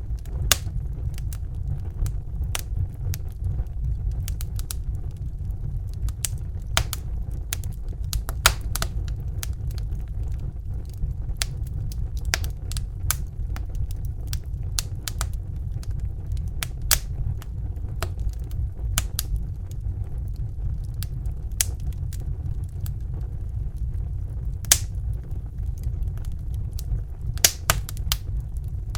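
Crackling fire: a steady low rumble with sharp, irregular pops and snaps scattered through it, a few of them louder, near the start, around a third of the way in and near the end.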